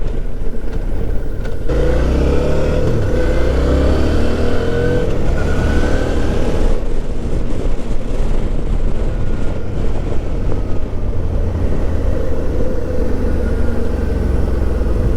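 Suzuki V-Strom 650's V-twin engine running on the move, rising in pitch as it accelerates from about two seconds in to about seven seconds, then holding a steadier cruise.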